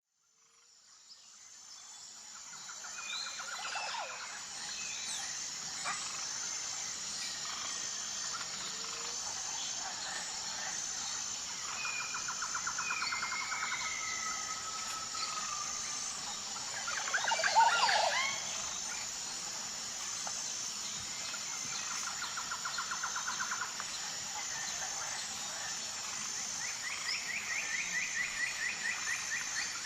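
Nature ambience with several birds calling, mostly in rapid trills that repeat every few seconds, over a steady high-pitched insect drone. One louder, sweeping call comes a little past the middle. The sound fades in at the start.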